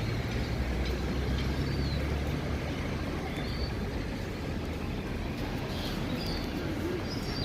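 Outdoor ambience by a harbour: a steady low rumble, heaviest in the first two seconds or so, under general background noise, with short high bird chirps now and then.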